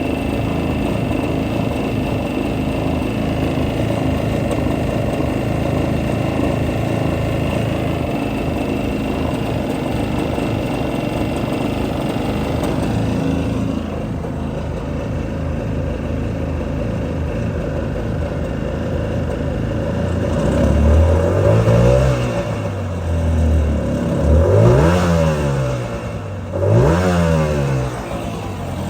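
Two-stroke jet ski engine running at a steady idle, then revved up and let back down three times near the end. It shakes with a lot of vibration, which the owner suspects is not normal.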